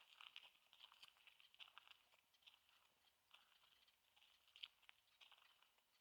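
Faint footsteps crunching on gravelly sand, an uneven run of soft crunches and clicks.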